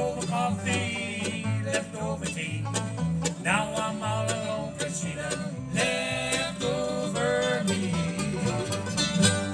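Bluegrass band playing live, with banjo picking and guitar over a steady bass line.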